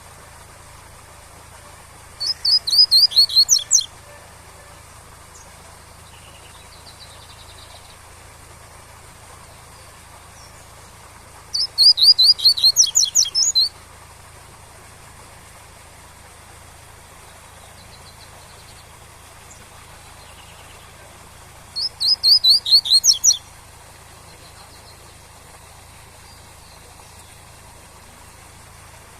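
Double-collared seedeater (coleiro) singing its 'tui-tui' song: three short phrases of rapid repeated high notes, about ten seconds apart, over a steady rush of waterfall.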